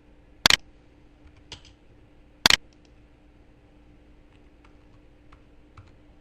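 Clicking at a computer: two loud sharp clicks about two seconds apart, a fainter click between them, and a few light ticks later, over a faint steady hum.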